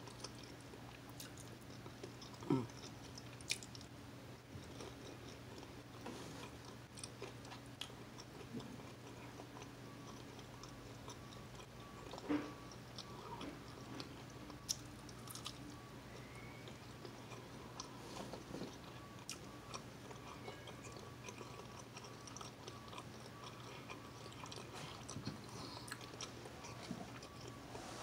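Close-up chewing and biting while eating scrambled eggs, croissant and sausage links, with scattered small clicks and smacks, the sharpest about two and a half seconds in and again about twelve seconds in, over a faint steady low hum.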